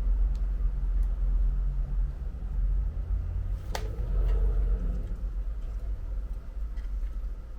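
Steady low background hum, with one sharp click a little under four seconds in that rings briefly, a small part or tool being handled during phone repair work.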